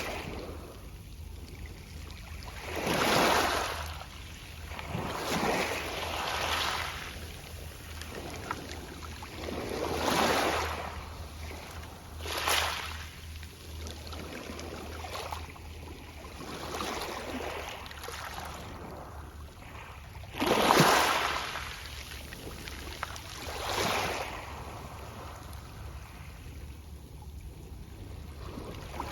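Small sea waves washing onto a pebble beach and rattling the pebbles, in separate swells every few seconds. The biggest swell comes about two-thirds of the way through.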